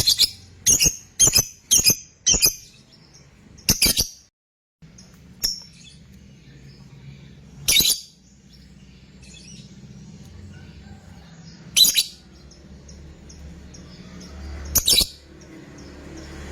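Lovebird giving short, sharp, shrill calls: five in quick succession at the start, then single calls every few seconds over a faint low hum.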